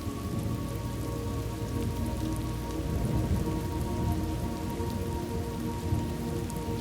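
Steady rain falling on a surface, with a low rumble of thunder swelling in the middle.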